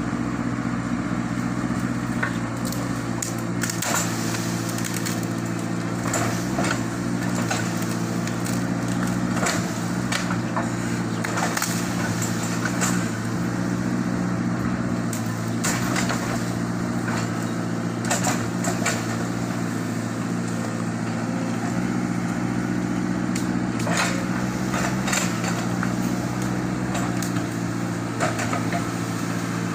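Sumitomo 110 excavator's diesel engine running steadily under load while rubber-wood trunks crack and splinter in many irregular sharp snaps.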